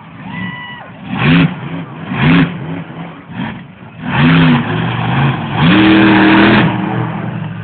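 Monster truck engine revving in four sharp blips, the pitch climbing and dropping each time; the last rev is held for about a second before falling back to a lower running note.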